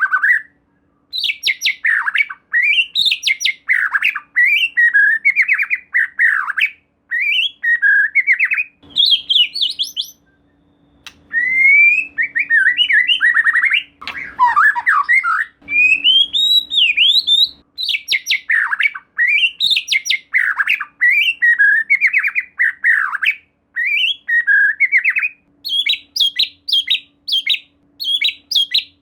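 White-rumped shama (murai batu) singing a near-continuous run of loud, varied phrases: rapid trills and fast note series, sweeping whistles and harsh squawk-like notes, with a short pause about ten seconds in.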